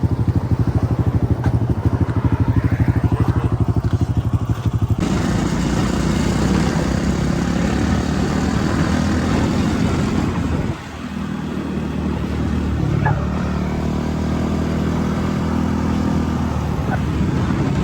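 Dirt bike engine running, with a fast pulsing beat for the first few seconds and then steadier running under throttle. About eleven seconds in the revs drop briefly, then pick up again.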